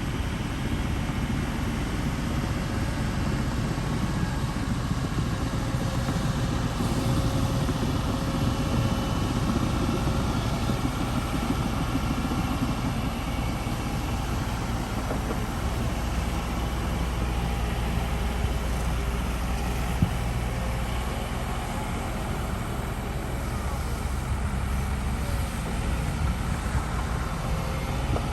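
Heavy diesel engine of earthmoving machinery running steadily, with one short sharp knock about twenty seconds in.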